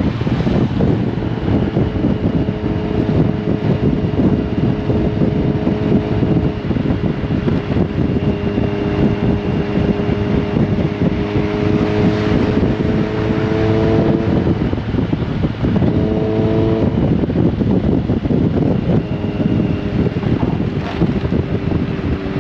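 Motorcycle engine running at cruising speed under heavy wind rush over the microphone. The engine note climbs briefly about two-thirds of the way through, then settles again.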